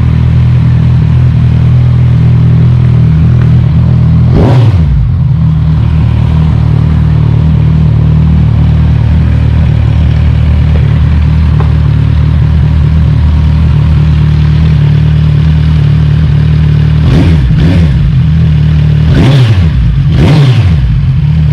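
Kawasaki Z1000R's inline-four engine running loud with both stock mufflers removed, the catalytic converter still fitted. It idles steadily with a quick throttle blip about four seconds in, then four blips in quick succession near the end.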